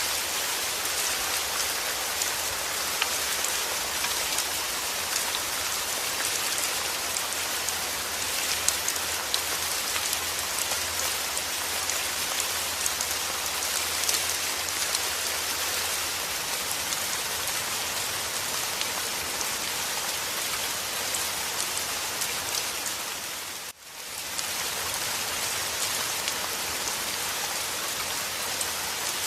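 Steady rain falling, a dense even hiss of many fine drop patters. The sound dips briefly about three-quarters of the way through and comes straight back.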